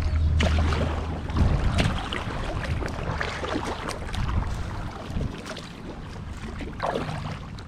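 Kayak paddling: irregular splashes and drips of the paddle blades dipping into the creek water, with water lapping around the hull.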